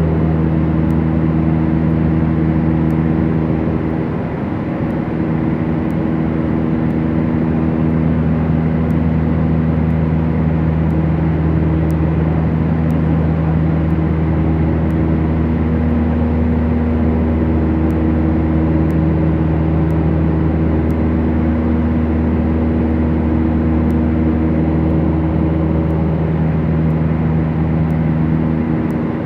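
Beechcraft Duchess's twin piston engines droning steadily, with a brief dip in loudness about four seconds in.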